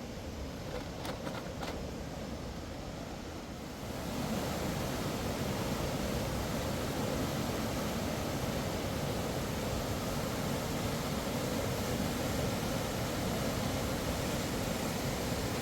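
Rushing mountain river water, a steady rush that gets louder and brighter about four seconds in.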